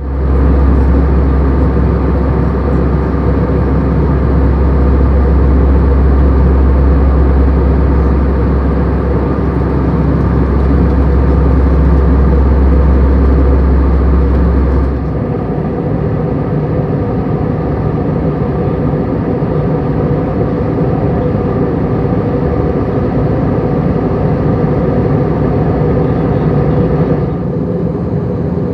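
Steady cabin noise inside an Airbus A320-200 in flight: engine hum and airflow rush. A deep low rumble drops out abruptly about halfway through, and the tone shifts again near the end.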